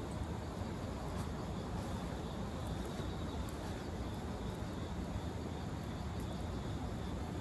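Wood fire burning in a fire pit stand: a steady low rumble with a few faint crackles now and then.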